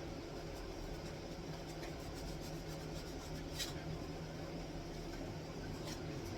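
A steady low mechanical hum, with a few faint clicks and one sharper tick a little past the middle.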